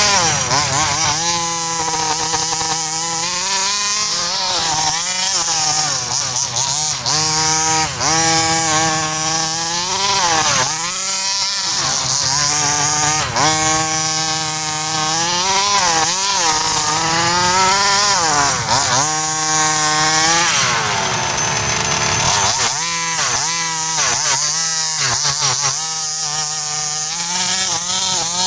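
Small 30.5cc two-stroke petrol engine of a 1/5-scale RC buggy running hard, its buzzing pitch repeatedly dropping and climbing again as the throttle is let off and opened up.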